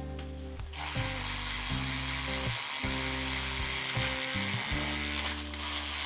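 Makita 18V cordless reciprocating saw running and cutting through bamboo, a steady rasping buzz that starts about a second in, over background music.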